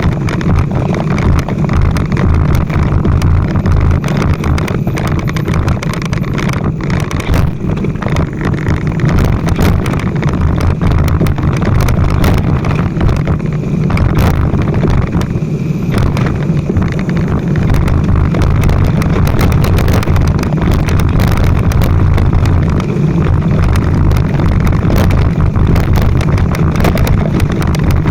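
Motorcycle running steadily on the move, with wind buffeting the microphone.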